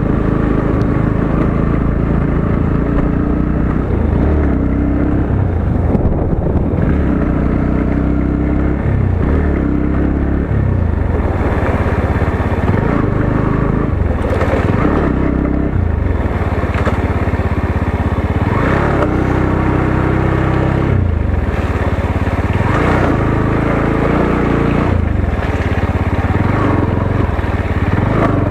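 Motorcycle engine running while riding, its pitch rising and falling again and again as the throttle opens and closes, over a steady low rumble.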